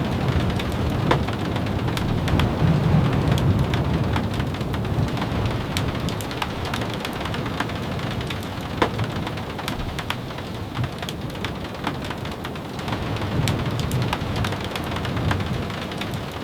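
Steady rain with scattered sharp ticks. A low rumble swells during the first few seconds and again near the end.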